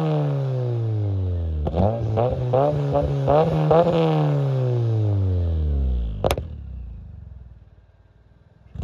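Turbocharged Toyota Tercel's engine being revved: the revs fall away, then the throttle is blipped about six times in quick succession, and the revs sink back down. A single sharp pop comes a little after the revs drop, and then the sound fades out.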